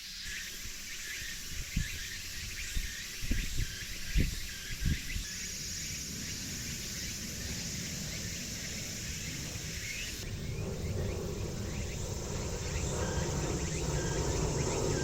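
Insects chirring steadily in woodland, with a cluster of sharp knocks and thuds about two to five seconds in from items being handled and set down on the table. Near the end a rustling noise swells, then everything cuts off suddenly.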